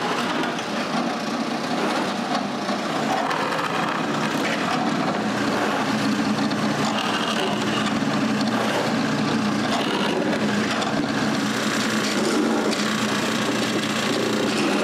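Electric drill running steadily and boring screw holes through plywood strips.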